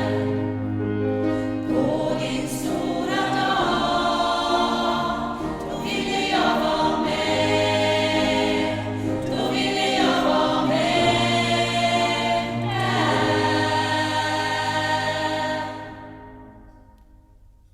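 Gospel choir singing a song with many voices in harmony. The choir holds its final chord, which dies away near the end.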